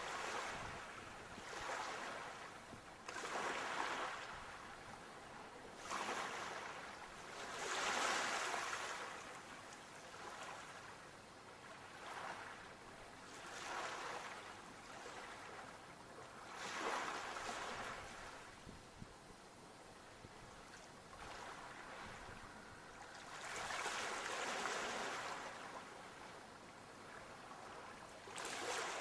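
Sea waves washing onto the shore, each wave swelling and fading every few seconds, with a calmer lull about two-thirds of the way through.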